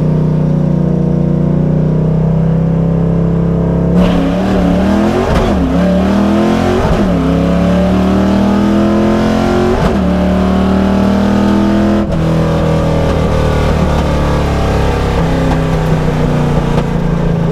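A 1989 Mustang GT's 5.0 V8, heard from inside the car, running at a steady pitch for a few seconds, then launching hard on a drag pass: the revs climb in sweeps broken by three quick upshifts on the manual gearbox. About twelve seconds in the driver lifts and the engine settles to a steadier, slowly falling note as the car coasts.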